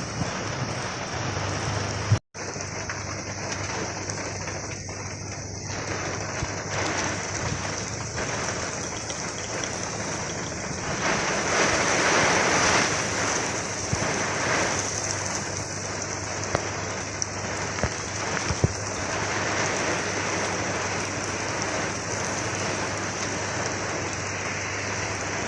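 Steady heavy rain falling and pattering on surfaces, growing louder for a few seconds in the middle. The sound cuts out for an instant about two seconds in.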